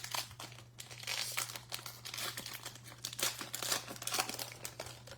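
A Topps Archives baseball card pack's wrapper being torn open and crinkled by hand: a run of irregular crackles and rustles that eases off near the end.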